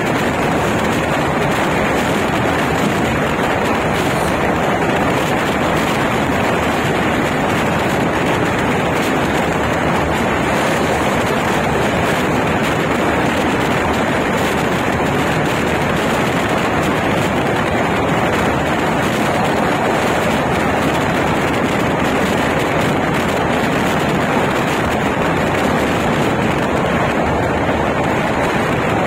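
Steady rushing noise of an express train's LHB coaches running at speed: wheels on rail mixed with air rush, even throughout.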